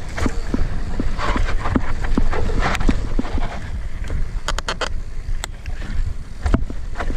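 Irregular footsteps, with wind rumbling on the microphone and a quick run of sharp clicks a little past the middle.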